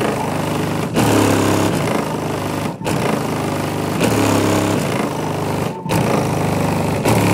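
Rap song played at high volume through a truck's three 15-inch subwoofers tuned to 26 Hz, heard as a dense, harsh din of heavy bass that flexes the truck's body, with a few brief drops.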